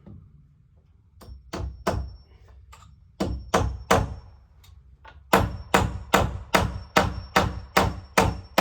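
Hammer blows: a few short groups of strikes, then a steady run of about eight blows, each with a high ringing note.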